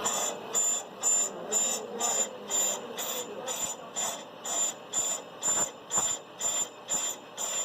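Brake lathe cutting a brake rotor or drum, its cutting bit squealing in a high, even pulse about twice a second over the lathe's steady running. It is the recurring squeal the operators are trying to cure by bringing the bit in further.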